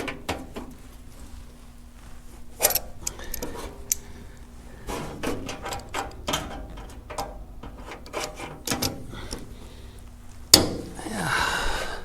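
Scattered clicks, knocks and light clanks of sheet-metal body panels and locking clamps (vice grips) being handled and adjusted. There is a sharper, louder clank near the end, followed by a brief scraping rustle.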